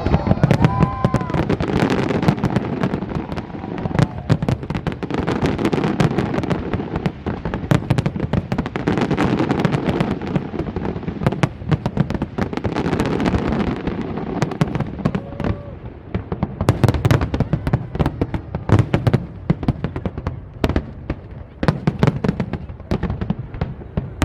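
Fireworks display: a rapid, unbroken stream of bangs and crackles that swells and eases in waves.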